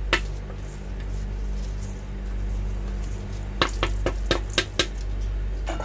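Washed rice going into a pot of boiling water, with a run of five or six sharp clinks of a spoon against the metal pot and bowl partway through, over a steady low hum.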